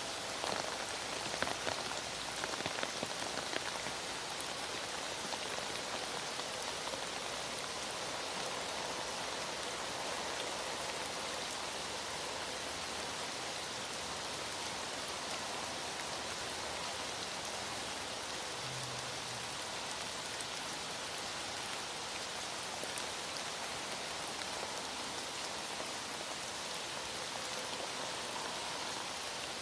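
Heavy rain falling steadily: an even, dense hiss of drops on surfaces, with a few louder taps in the first few seconds.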